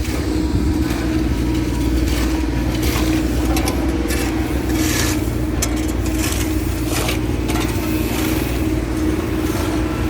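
Road-repair machinery with its engine running at a steady pitch, and short scraping noises now and then.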